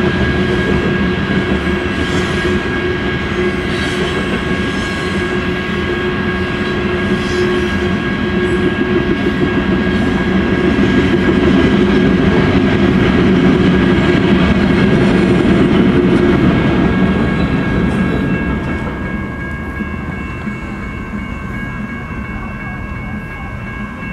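A loaded coal freight train rolling past, its wagons rumbling and clacking over the rail joints, fading noticeably about three quarters of the way through as the train draws away. Steady high ringing tones run alongside and carry on after the rumble fades.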